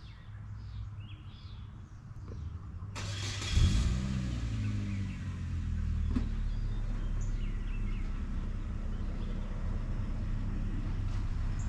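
Vehicle engine starting about three and a half seconds in, then running steadily with a low hum. Before it there is a low rumble with faint bird chirps.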